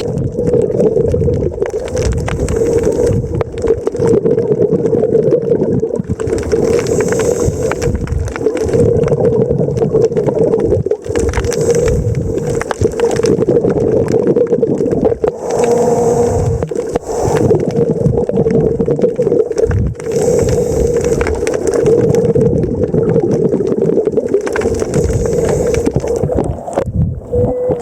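Boat engine running steadily, a constant drone over rough rumble and splashing.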